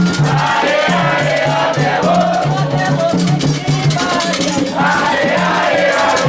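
Candomblé ritual song: voices singing a chant over steady drumming, with a rattle shaking in quick even strokes throughout.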